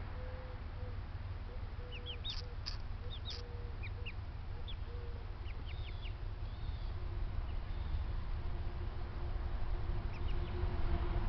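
Backyard poultry calling: ducks and other fowl, with short high chirps scattered through and low calls, over a steady low rumble.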